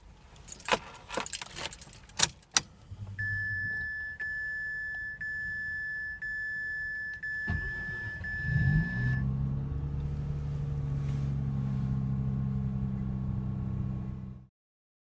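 Keys jangle and click in the ignition, then a steady high warning chime sounds from the car. About seven and a half seconds in, the starter cranks. The Mazda RX-8's rebuilt rotary engine catches, rises and settles into a steady idle, which cuts off suddenly near the end. The engine's rebuild left it with low compression.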